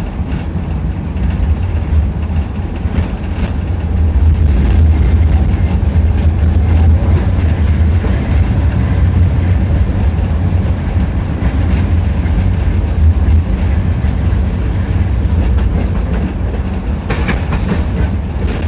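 Tram running along its track, heard from inside the passenger car: a steady low rumble of wheels on rails, with a brief clatter near the end.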